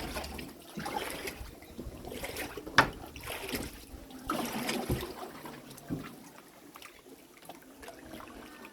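Water splashing and trickling off kayak paddle strokes in irregular bursts, with one sharp knock a little under three seconds in.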